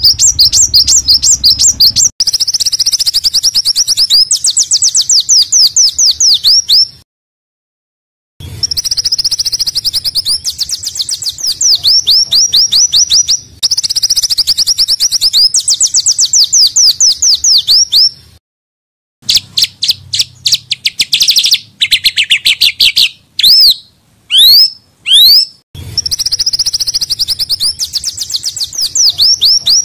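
Recorded song of small songbirds: dense, rapid trains of high, harsh chirping notes in bursts of several seconds, broken by sudden silent gaps where the recording is cut. About two-thirds of the way through come a few louder sweeping whistles that dip lower in pitch.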